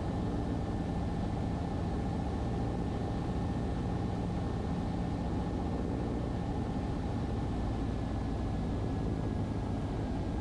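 Cessna 150's four-cylinder Continental O-200 engine and propeller droning steadily in the cabin on final approach, with a faint thin whine above the drone.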